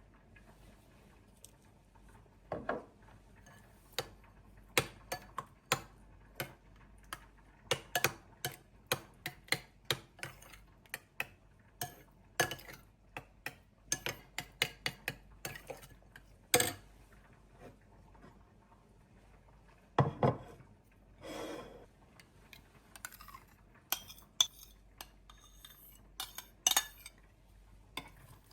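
Dishes, glasses and cutlery being set down and handled on a table: a long run of irregular clinks and knocks, some ringing briefly, with a short scraping sound about three quarters of the way through.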